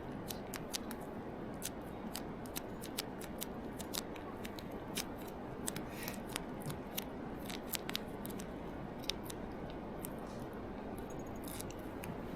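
Firewood burning in a small solo fire stand, crackling with many irregular sharp pops over a steady hiss.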